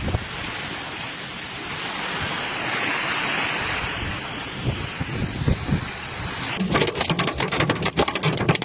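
Heavy storm downpour with hail, a steady rushing hiss. About six and a half seconds in the sound changes abruptly to a dense, uneven clatter of hailstones striking hard surfaces.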